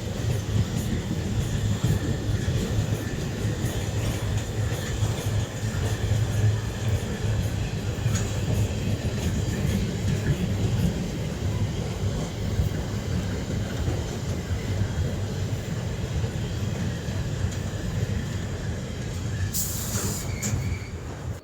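Train rolling past at close range: a steady rumble of wagons on the rails, with some wheel squeal, and a brief sharp high noise near the end.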